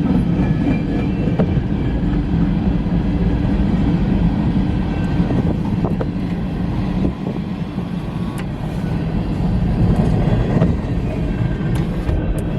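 Cars of a mixed freight train rolling past. Steady loud rumble of wheels on rail, with a few scattered clicks and knocks.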